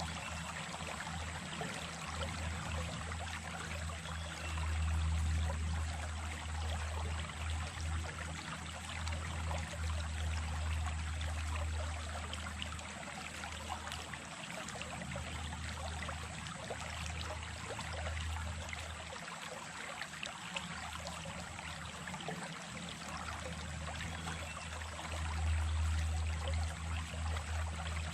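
Small stream running over stones, a steady rush and trickle of water, with a low rumble underneath that swells and fades, strongest twice.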